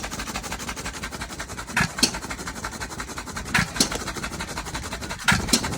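Novo hit-and-miss engine running: it fires with a sharp bang and low thump about every second and three-quarters, three times, and coasts between firings with a steady fast ticking. It seems to be running all right.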